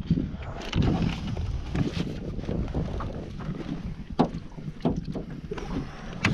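Irregular knocks and thumps inside a jon boat as a landed alligator gar and the gear are handled on board, with wind rumbling on the microphone.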